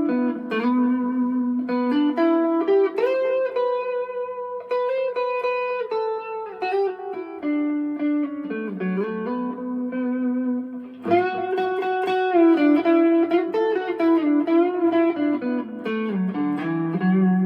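Fender Player II Stratocaster electric guitar played through an amp with a little overdrive: a melodic lead line of single notes with slides. The playing drops away briefly about eleven seconds in, then picks up again louder.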